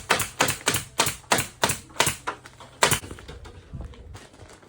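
Hand staple gun firing in quick succession, about three sharp clacks a second, as staples are driven to fasten fiberglass insulation to the framing. The stapling stops about three seconds in, leaving only a few faint ticks.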